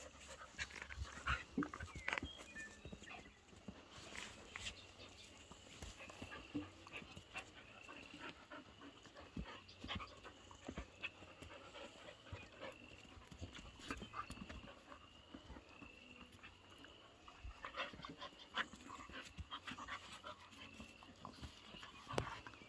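A dog panting close by, with scattered light clicks and knocks throughout.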